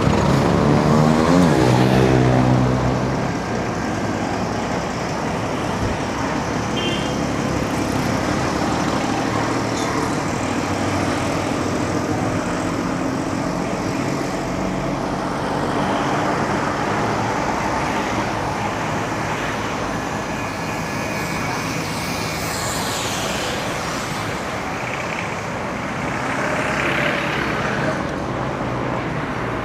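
Steady road traffic around a bicycle. In the first couple of seconds a motor vehicle passes close by, loudest of all, its engine note falling as it goes.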